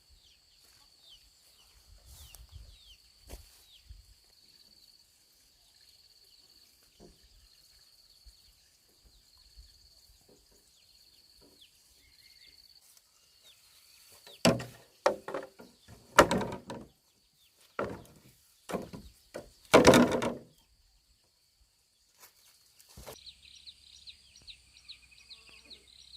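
Forest ambience with a steady high insect drone and chirps. About halfway through come a series of about six loud, sharp knocks, each with a short ring.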